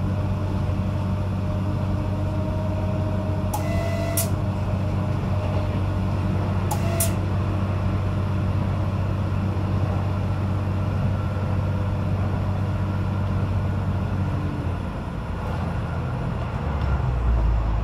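PESA 620M diesel multiple unit running, a steady low engine drone, with two brief high-pitched sounds about 4 and 7 seconds in. Near the end the drone changes and a deeper rumble swells.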